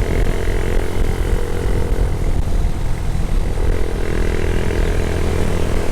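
A vehicle engine running steadily, a constant drone over a low rumble.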